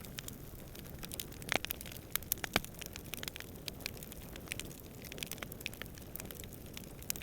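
Wood campfire crackling, with irregular sharp pops and snaps, the loudest about one and a half and two and a half seconds in, over a low steady rush of distant wind.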